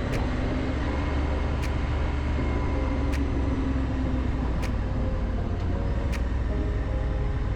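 A motor vehicle on the move, most likely a motorcycle being ridden: a steady deep rumble of engine and road noise, with a faint short tick about every second and a half.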